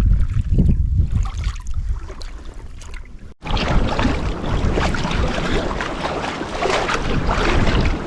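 Wind buffeting the microphone with low rumbling gusts. A little under halfway through this cuts off abruptly and gives way to a steady, full hiss of wind and sea water washing around a sea kayak under way.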